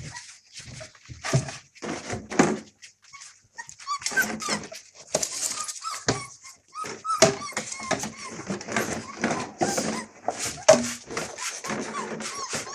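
A litter of month-old Australian Cattle Dog puppies whining, squealing and yapping over and over as they crowd in to eat meat, with short knocks mixed among the cries.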